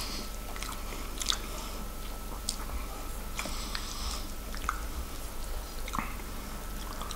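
Close-miked chewing of a mouthful of corned beef hash: scattered soft, wet mouth clicks and smacks, with a few light clicks of a wooden spoon scooping against the plate.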